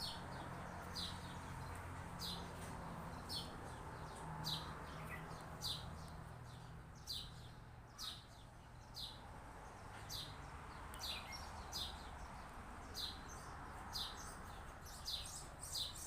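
Small birds chirping: short, high, downward-sweeping chirps repeating about once a second, over a faint low background hum.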